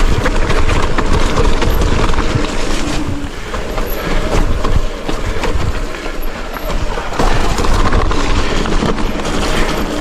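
Mountain bike descending a rough, muddy trail: tyres rumbling over the ground with a constant clatter of knocks and rattles from the bike, the ride hard enough to heat the brakes.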